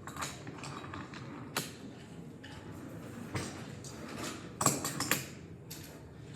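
Toy trains and toy vehicles being handled: scattered clicks, taps and clatters of the pieces, with a quick run of louder clicks a little under five seconds in.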